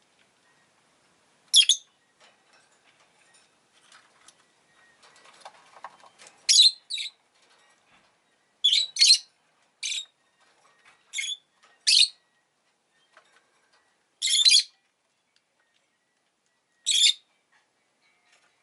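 Rosy-faced lovebird giving about ten sharp, high-pitched chirps at irregular intervals, some in quick pairs. A faint rustling comes about a third of the way in.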